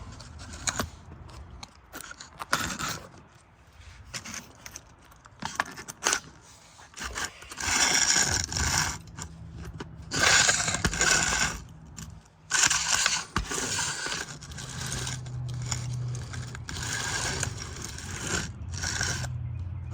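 Metal hand tools clinking and scraping in irregular bursts as pliers are worked on a stuck, spinning fastener. A steady low hum comes in about halfway through.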